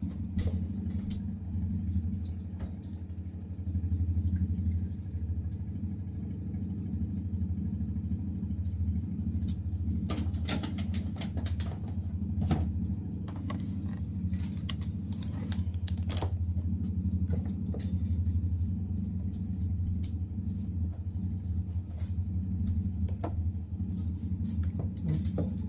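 A kitchen appliance's motor switched on and humming steadily, with scattered clicks and knocks of things being handled over it.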